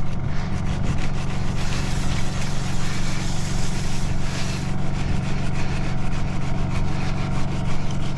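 Truck engine running steadily with an even hum. About one and a half seconds in, a rushing hiss joins it for about three seconds, then stops.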